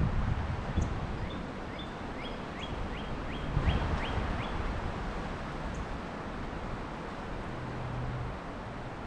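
A songbird sings a run of about nine quick whistled notes, each sweeping sharply upward, coming a little faster toward the end. Steady wind rumbles on the microphone underneath, with a louder gust midway.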